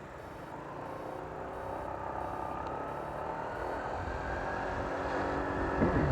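Honda PCX scooter with a CBU-spec CVT fan, engine running, its note rising slowly and getting louder.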